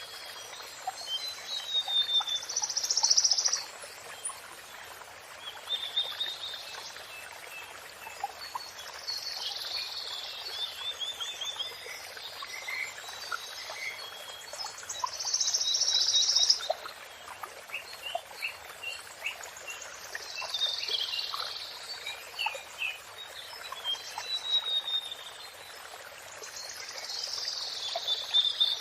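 A songbird singing short, high-pitched song phrases every few seconds over the steady rush of running water.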